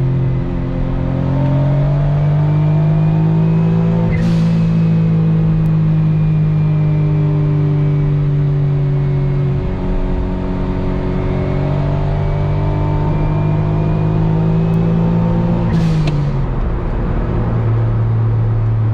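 Autozam AZ-1's small turbocharged three-cylinder engine running through a straight downpipe with no catalytic converter, heard from inside the cabin while driving. The engine note climbs as it pulls, eases off and climbs again, with a short turbo hiss about four seconds in and again near the end as the revs drop.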